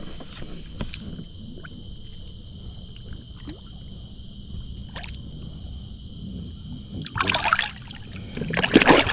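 Water trickling and sloshing beside a fishing boat, with two louder splashes near the end.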